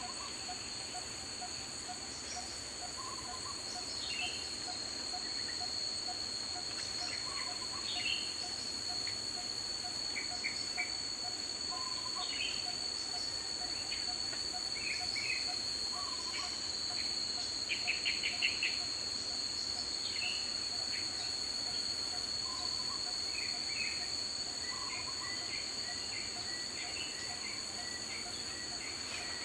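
Daytime tropical forest ambience: insects keep up steady high-pitched shrilling, with a fast regular ticking underneath and scattered short bird calls, including a quick run of notes about two-thirds through.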